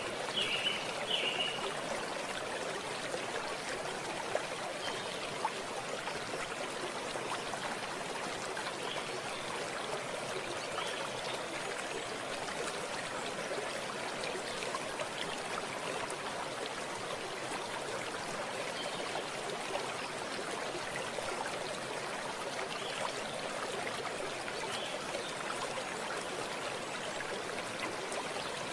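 Running water in a stream, a steady unbroken rushing and trickling.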